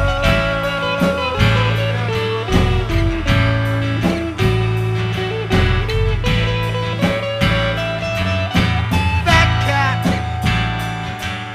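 Instrumental passage of a bluesy rock song: guitar lead with bending notes over bass and a steady drum beat.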